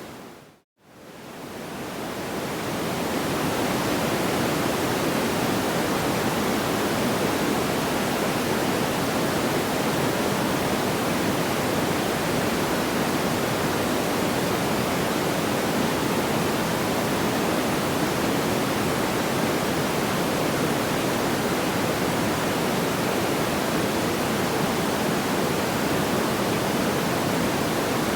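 Steady, even hiss of a sleep-noise track, with no separate crackles or pops. It fades out to silence just under a second in and fades back up over the next couple of seconds: the seam of the loop.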